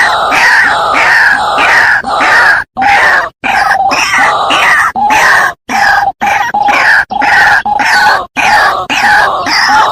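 White-breasted waterhen calls: a rapid chorus of harsh, repeated notes, each falling in pitch. The sound cuts out abruptly for a moment several times.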